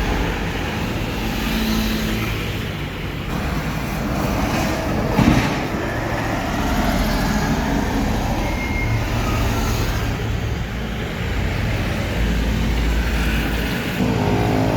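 Road traffic with trucks passing, their engines running steadily, with a short loud burst about five seconds in and a deeper engine rumble near the end.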